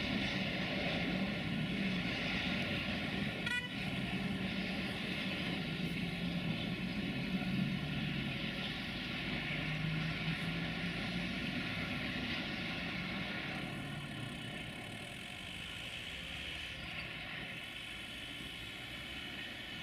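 Freight wagons rolling away on the rails: a steady rumble and hiss of steel wheels over low drone, with one brief click about four seconds in. It fades as the train recedes, the hiss dropping off about two-thirds of the way through.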